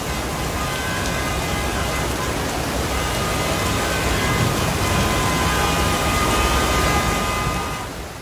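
Heavy rain pouring down steadily, with a faint hum of traffic underneath; it fades out near the end.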